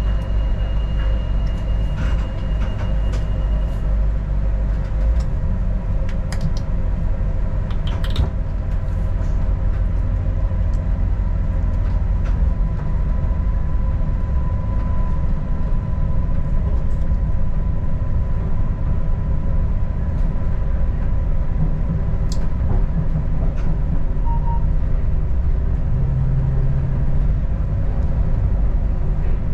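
Adelaide Metro diesel railcar running along the track, heard as a steady low rumble with a faint steady whine. A few sharp clicks come through along the way.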